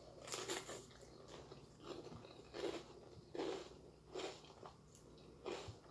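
A person chewing a mouthful of food close to the microphone, in a run of short bursts a little under a second apart.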